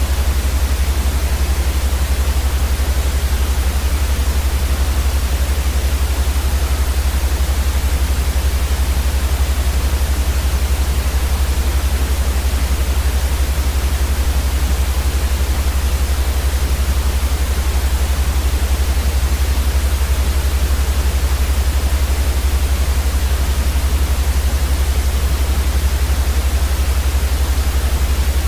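Steady, unchanging white noise for sleep: an even hiss over a loud, constant deep rumble.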